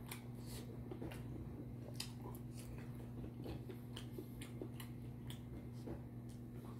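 A person eating with chopsticks: faint chewing and many small clicks from the mouth and the chopsticks against the glass bowl, over a steady low electrical hum.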